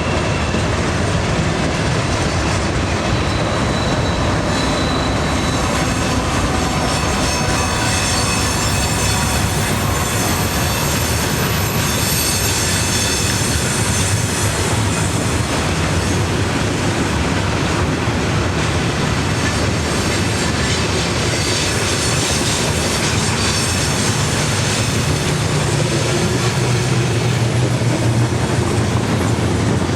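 Train cars rolling past, a steady rail rumble with the clatter of wheels over the joints and high-pitched wheel squeal that comes and goes, loudest in the middle; the low rumble grows heavier near the end.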